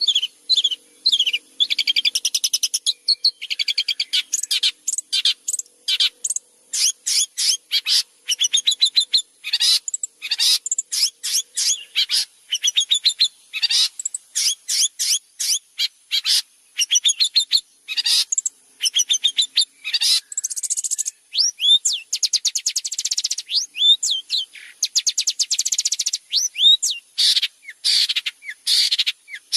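Long-tailed shrike (cendet) singing continuously: a fast, varied run of high-pitched chirps, sweeping notes and rapid rattling trills, in short phrases with brief gaps between them.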